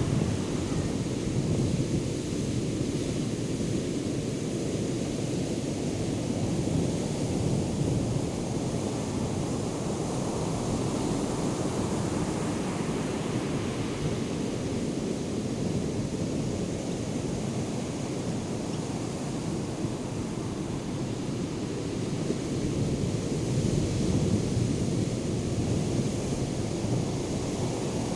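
Ocean surf from Hurricane Erin's swell: a continuous low rush of breaking waves that swells slightly near the start and again about 24 seconds in, with wind buffeting the microphone.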